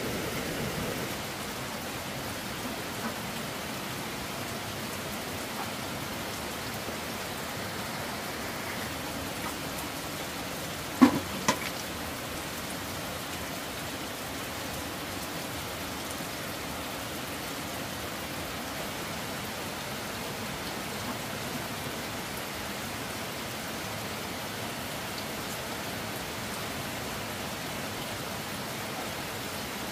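Steady rain falling, an even hiss throughout. About a third of the way in, two sharp knocks about half a second apart stand out above it.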